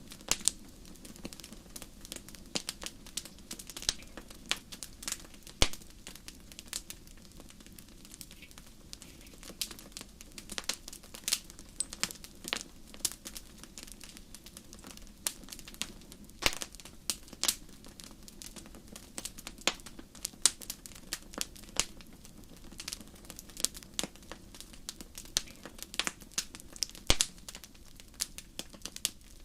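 Wood fire burning in a fireplace, crackling with many irregular sharp pops and snaps over a steady low hiss.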